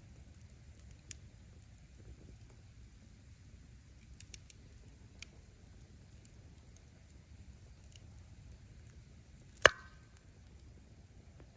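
Firewood burning in a bonfire: a steady low rumble of flame with scattered faint crackles, and one loud, sharp pop near the end as a log bursts.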